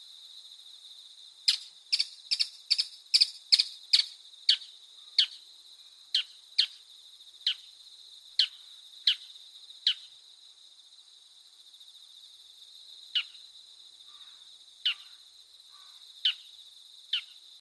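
Night-time cricket ambience: a steady high cricket trill. Over it come sharp chirps that fall in pitch, about two or three a second at first, then slowing and spreading out, with a few more near the end.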